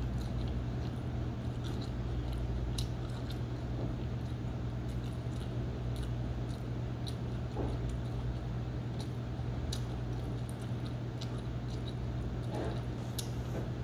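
A person biting into and chewing a slice of pizza, with scattered short wet mouth clicks, over a steady low hum.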